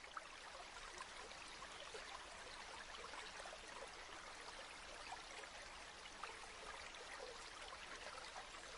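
Indoor water fountain trickling: a steady, quiet wash of running water dotted with small drips and splashes.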